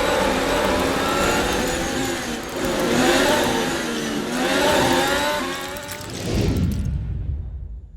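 Racing car engines at high revs, their pitch rising and falling in repeated swells as cars pass, fading out near the end.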